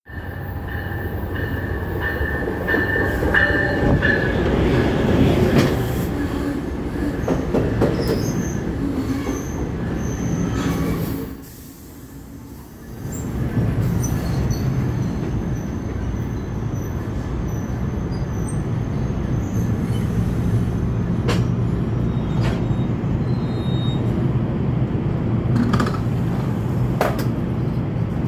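NJ Transit Bombardier bilevel commuter train pulling into the station, with wheels and brakes squealing as it slows. It then stands at the platform with a steady low hum and a few clicks.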